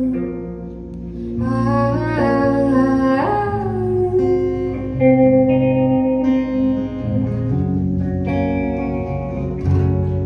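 Live band music: a guitar and bass play held chords, and a voice sings long notes without clear words.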